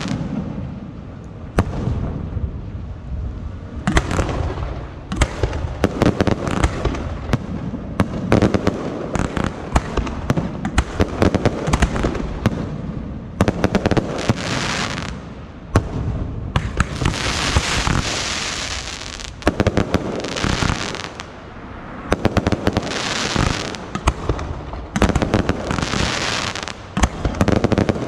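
Procession fireworks going off without a break: a rapid string of sharp bangs and pops, with bursts of crackling hiss every few seconds.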